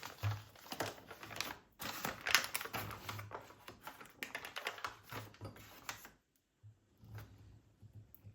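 Rapid runs of light clicks and taps in a small room, pausing briefly about six seconds in.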